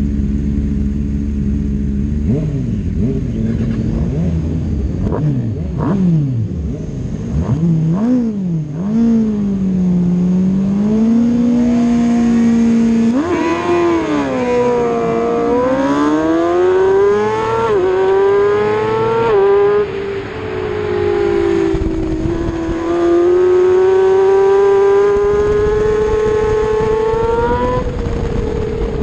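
A 600cc superbike engine idles, then is blipped up and down several times and held at a raised rev. About halfway it rises sharply and pulls away, climbing through the gears with a drop in pitch at each upshift, and settles into a steady high-rev run.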